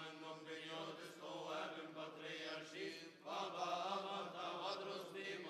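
Coptic liturgical chant: male voices softly singing long, drawn-out held notes.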